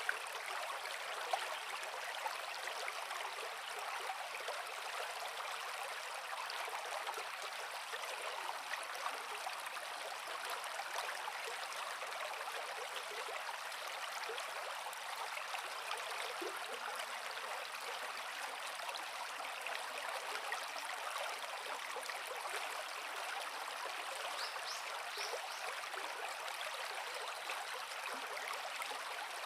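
Creek water flowing steadily over rocks, a continuous rush with small splashes and trickles through it.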